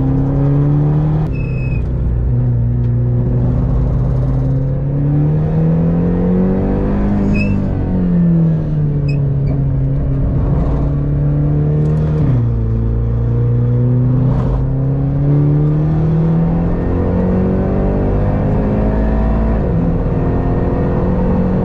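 Hyundai Elantra N's turbocharged four-cylinder engine, heard inside the cabin, pulling hard around a race track. The pitch climbs under throttle, falls sharply at gear changes about 8 and 12 seconds in, then climbs steadily again near the end.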